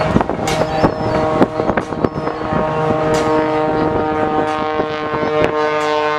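Engine of an aerobatic display aircraft running with a steady pitched tone, with wind gusts and knocks on the microphone.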